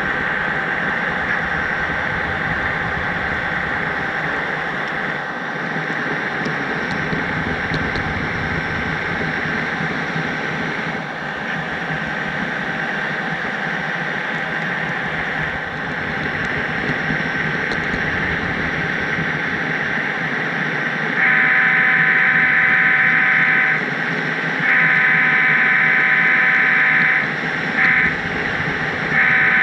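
Sound-equipped HO-scale model diesel locomotive blowing its horn in the grade-crossing pattern: two long blasts, a short one and a long one, starting about two-thirds in, over the steady noise of the train running.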